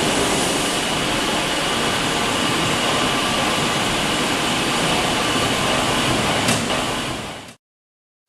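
Steady industrial machinery noise from the furnace plant, an even whooshing hum with a faint high whine and one short click, fading out near the end.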